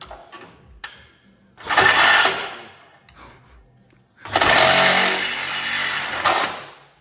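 Power saw with a metal-cutting blade cutting through the exhaust pipe of a Can-Am Outlander ATV, in two bursts: a short one of about a second, then a longer one of about two and a half seconds. A couple of short clicks come before the first burst.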